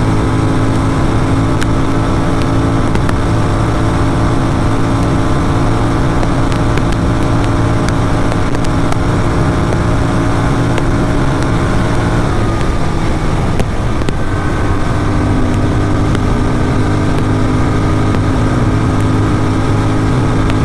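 Motorcycle engine running hard through an aftermarket exhaust at highway speed, a steady loud note. About twelve seconds in the note dips and shifts, then settles at a new steady pitch.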